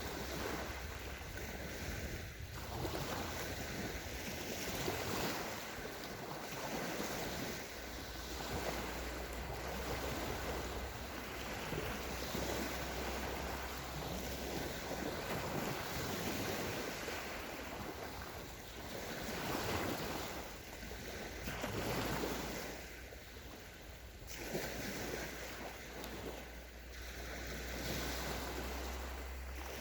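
Sea waves washing onto a sandy shore: a continuous surf hiss that swells and eases every few seconds as each wave breaks and runs up the sand.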